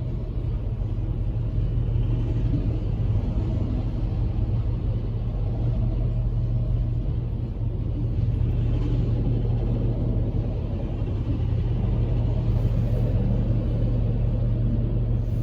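Freight train rolling past, a steady low rumble with an even hum underneath, heard from inside a parked truck.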